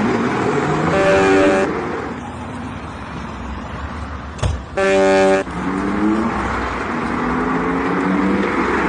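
Vehicle horn blown twice, briefly about a second in and again about five seconds in, over steady road-traffic noise. A sharp knock comes just before the second blast, and an engine's note rises afterwards as a vehicle accelerates.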